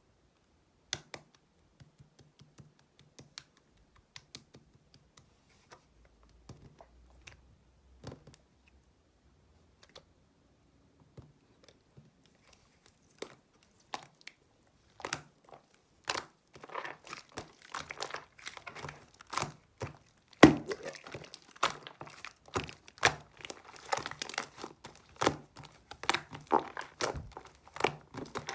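Crinkling, crackling handling noises: scattered clicks at first, then, from about halfway, a dense run of crackles and crunches with one louder snap.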